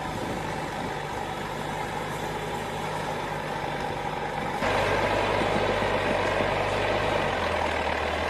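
DT-75 crawler tractor's diesel engine running steadily while pulling a load through mud. About four and a half seconds in, the sound suddenly turns louder and changes character.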